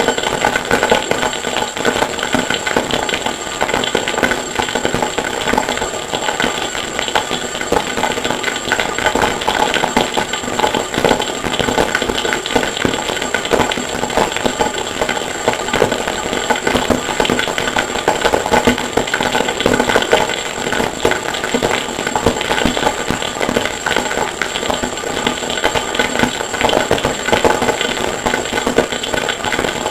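Harsh noise music: a loud, unbroken wall of dense, rapid clatter processed from a sampled forge recording, with a steady high whine on top.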